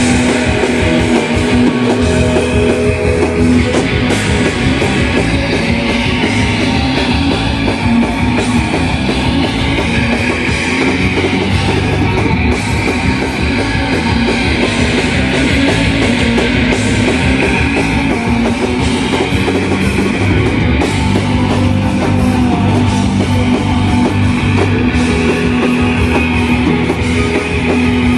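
Live shoegaze rock band playing an instrumental passage: a dense, loud wall of distorted electric guitars over a drum kit.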